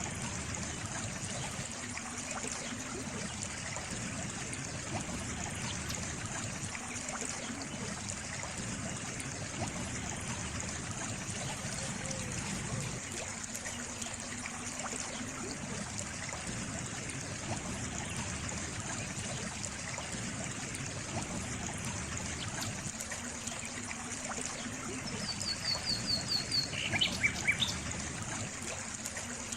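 Water trickling steadily. Near the end a bird chirps a quick run of short high notes, then a few lower ones.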